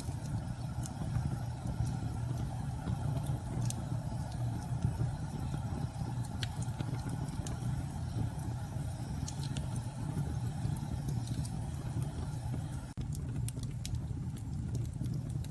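Steady low rumble of storm wind with scattered sharp crackles from a wood fire. The sound dips out for a moment near the end.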